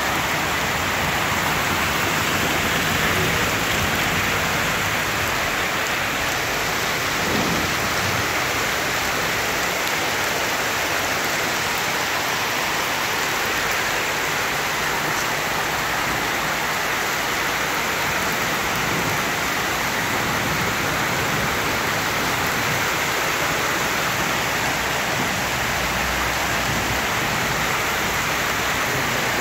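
Heavy rain pouring down onto a flooded street, a steady hiss that does not let up.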